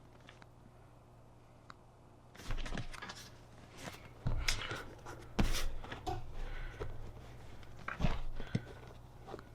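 Low room hum, then from about two and a half seconds in, a string of irregular knocks, clicks and rustling handling noises from work on a motorcycle seat pan and its cover.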